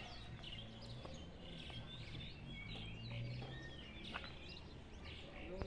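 Small birds chirping, many short high calls in quick succession, over a faint low steady hum of outdoor background noise.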